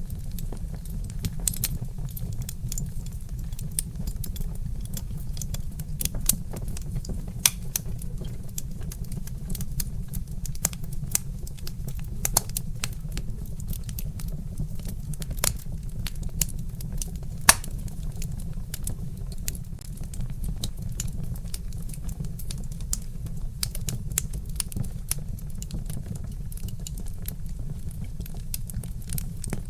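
Wood fire crackling in a fireplace: irregular sharp pops and snaps over a steady low rumble, with one louder pop a little past the middle.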